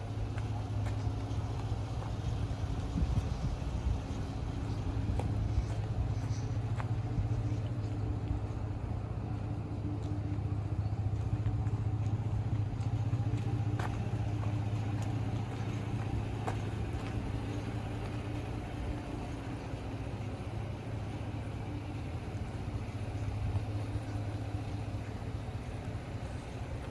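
Chevrolet Silverado 1500's V6 engine idling steadily, a constant low hum with a few faint clicks over it.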